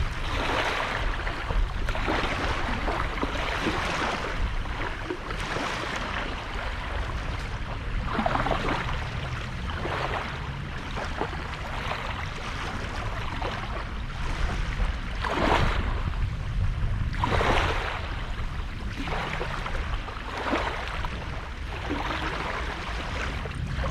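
Small sea waves breaking and washing up on a sandy beach, one after another every second or two, over a steady low rumble.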